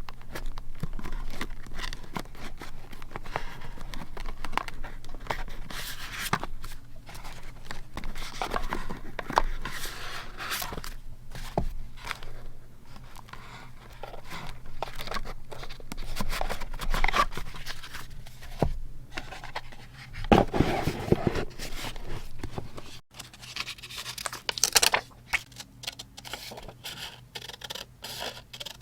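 Close-up paper handling for scrapbooking: sheets and stickers rustling, crinkling, scraping and tearing, with many small taps and clicks. A louder, lower burst of handling comes about twenty seconds in.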